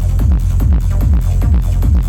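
Techno from a live DJ set played loud, with a deep kick drum hitting evenly about twice a second and light high percussion above it.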